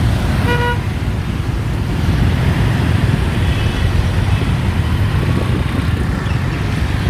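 Steady wind and road noise of riding pillion on a motorbike through city traffic, with a short horn beep about half a second in.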